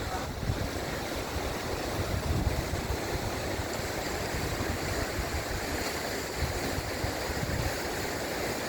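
Steady ocean surf and wind, with wind buffeting the microphone in an uneven low rumble.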